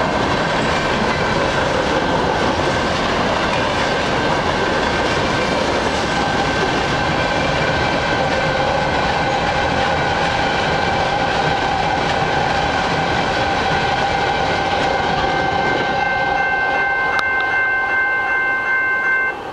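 Freight cars of a long train rolling past on the rails: a steady, loud rumble and clatter of steel wheels, with steady high ringing tones over it. The noise drops off suddenly right at the end.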